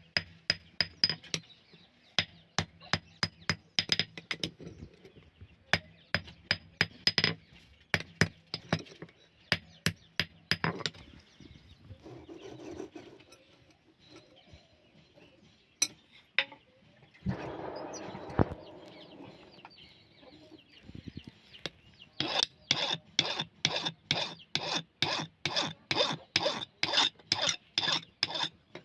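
Hammer blows on steel, each with a short metallic ring. Irregular strikes for the first several seconds, a pause with some scraping and clatter about midway, then a fast, steady run of blows, about three a second, near the end.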